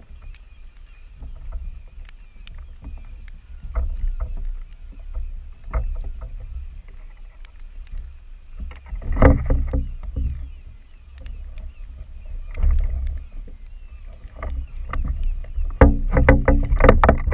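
Water slapping and sloshing against a fishing kayak's hull over a constant low rumble, with scattered small clicks and knocks; the sloshing grows louder for a moment about halfway through and again near the end.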